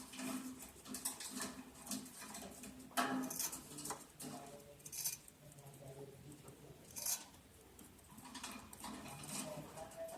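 Lovebirds moving about in their cage or nest box: scattered light scratching and tapping, with a few louder short sharp sounds about three, five and seven seconds in.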